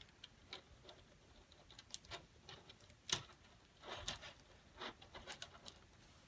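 Light, scattered clicks and taps of small 3D-printed plastic tiles being handled, the sharpest about three seconds in.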